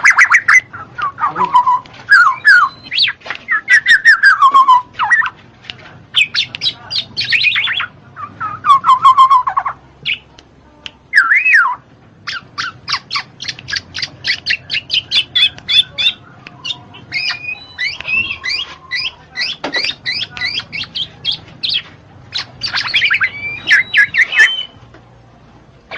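Black-naped oriole (kepodang) calling: slurred fluty whistles that fall in pitch, mixed with harsh squawks, then a long rapid series of short sharp notes in the second half.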